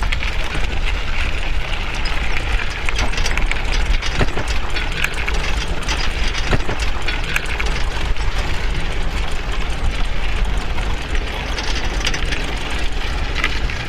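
Steady road noise with a strong low rumble, beginning abruptly and holding an even level throughout.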